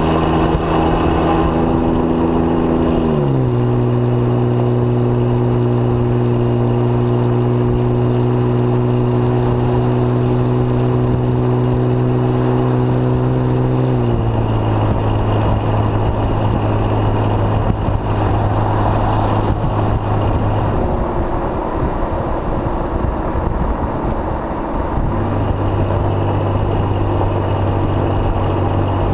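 2005 Jeep Grand Cherokee engine and exhaust through a Thrush welded muffler, running on the road with a steady drone. The pitch steps down sharply twice, about three and fourteen seconds in, as the transmission upshifts. The note fades for a few seconds past the twenty-second mark, then comes back.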